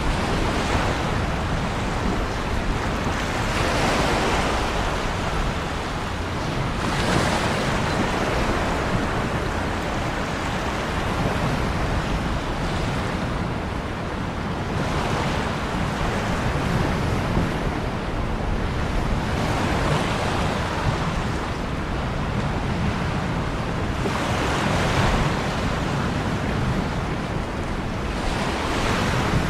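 Ocean waves breaking and washing on a shore in a steady surf, with a wave swelling up about every three to four seconds.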